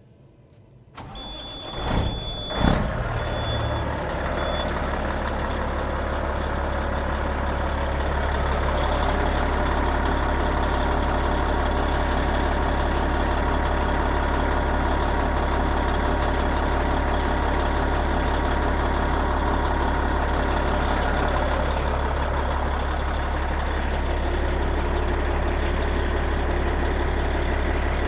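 Semi truck's diesel engine cranking for about two seconds, then catching and settling into a steady idle, starting on four newly installed batteries after a no-start. A high steady beep sounds during the start.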